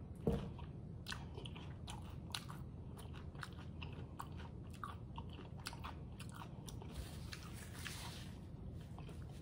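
Chewing a crunchy hard-shell corn taco: a steady string of small crisp crunches and mouth clicks. Near the end, a brief soft rustle of a paper napkin wiped across the mouth.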